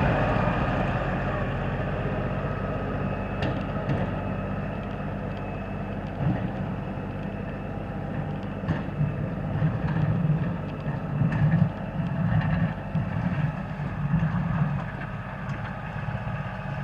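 LS4135 compact tractor's diesel engine running steadily, its low hum swelling now and then, with a few short clanks.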